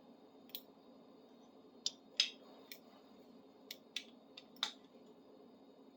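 Small metal clicks as a tubing cutter is hand-adjusted and its tension backed off from too tight: about eight sharp, irregular clicks, the loudest a little after two seconds in.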